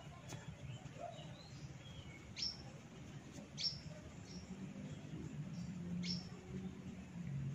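A bird chirping in the background: several short calls, each sliding quickly down in pitch, spaced a second or so apart. There is a single sharp click near the start and a low hum underneath.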